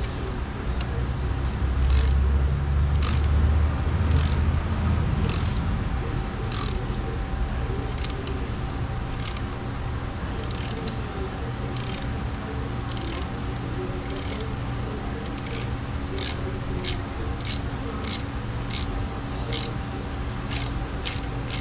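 Ratchet wrench with a 10 mm socket clicking, sharp single clicks about once a second at first and closer together toward the end, over a steady low hum, while bolts on an outboard lower unit's water pump housing are worked.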